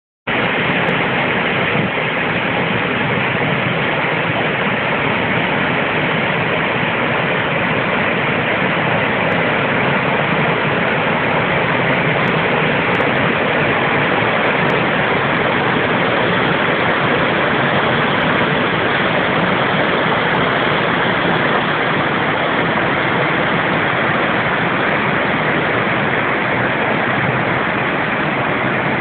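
Small waterfall on a creek: a steady rush of falling water, unchanging throughout.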